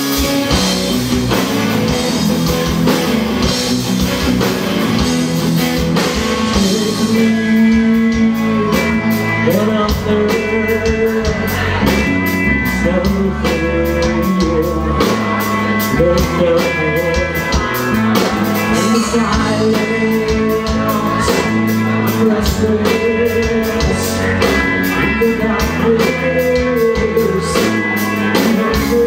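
Live rock band playing, with electric guitars, bass, drums and vocals, and a steady drum beat throughout.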